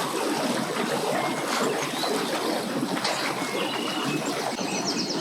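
Steady rushing, water-like noise, with a few faint short high chirps.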